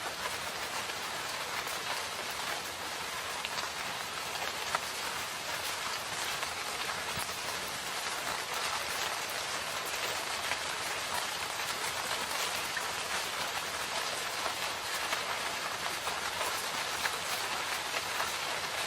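Steady rain falling in a forest, a dense even hiss with many small drop patters scattered through it.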